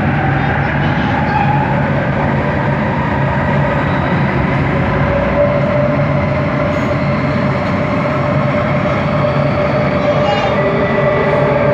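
Bombardier Innovia ART 200 metro train running, heard from inside the car: steady rolling noise with a humming linear-induction-motor tone. A higher whine joins in near the end.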